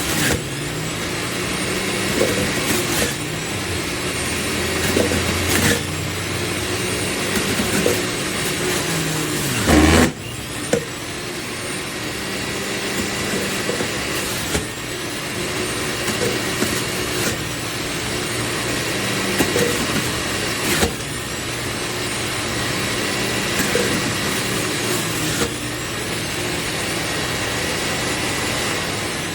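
Electric juicer motor running steadily, with occasional knocks and thumps, most likely produce being pushed down the chute into the spinning grinder. About ten seconds in there is a louder thump, and the motor's pitch sags briefly under the load.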